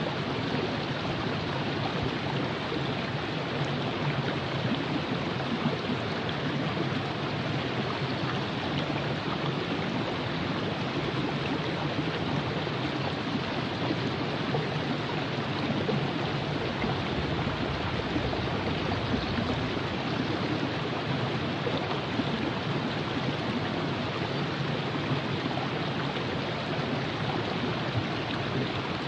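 A river flowing: a steady, even rush of moving water with no breaks or changes.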